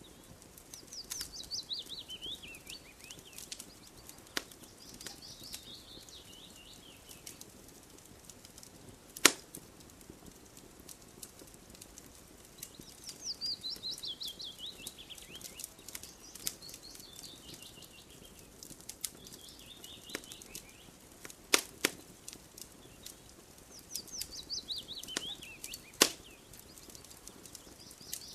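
Campfire crackling with small ticks and three loud sharp pops, about nine seconds in, then twice in quick succession near the end. Over it a songbird repeats a quick falling series of chirps about every twelve seconds.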